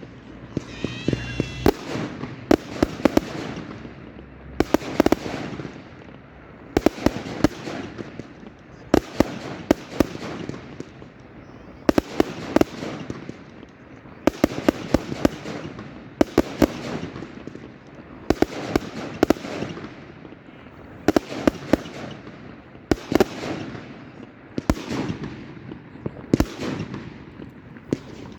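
Fireworks going off in a steady barrage: clusters of sharp bangs about every two seconds, with crackling between them.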